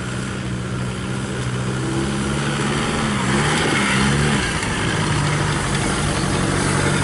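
A vehicle's engine running at low revs, its pitch wavering briefly about halfway through as it gets a little louder.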